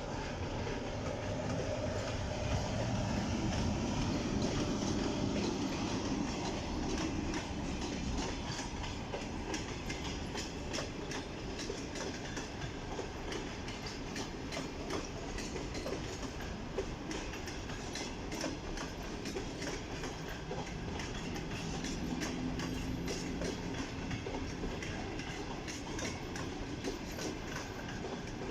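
Passenger train rolling past at low speed, its wheels clicking steadily over rail joints and pointwork.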